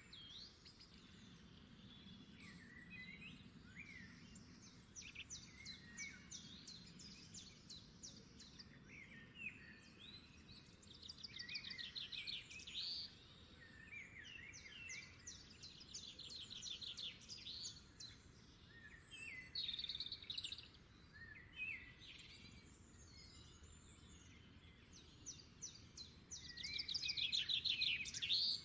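Small birds chirping over a faint steady hiss, with bursts of fast trilled notes, the loudest near the end.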